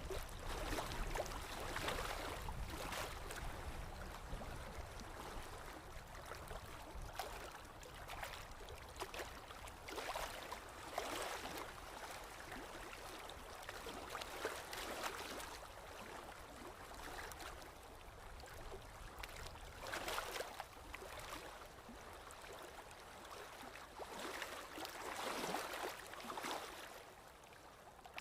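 Paintbrush strokes on canvas: irregular scrubbing swishes, one every second or two, as acrylic paint is worked on.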